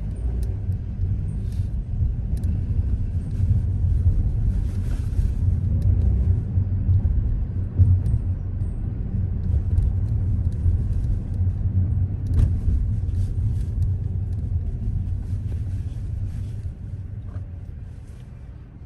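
A car driving on city streets: a steady low rumble of road and engine noise, easing off over the last few seconds.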